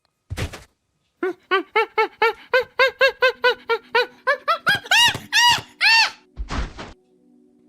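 An animal calling: a fast run of short pitched calls, about three or four a second, that builds into a few louder, higher and longer calls, followed by a thud.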